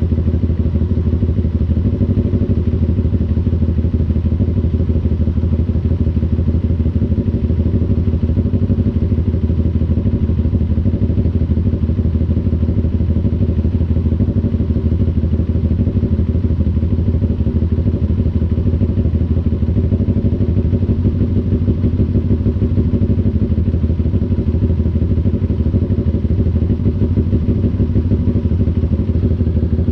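CF Moto NK400's two-cylinder engine running steadily at an even engine speed, with no revving up or down.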